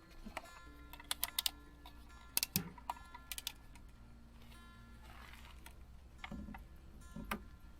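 Scattered sharp clicks and clinks of utensils against dishes, a few close together then spaced out, over quiet background music.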